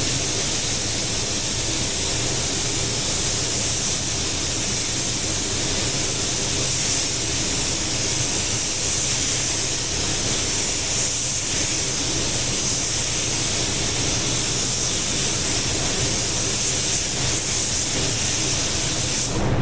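A steady hiss over a low, even hum.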